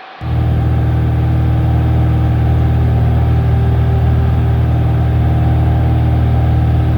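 Cessna 172's piston engine running steadily with a deep, even drone, cutting in abruptly just after the start.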